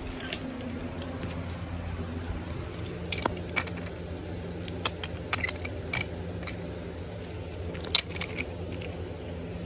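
Wooden toy trains rolling along wooden track: irregular clicks and clacks over a steady low hum.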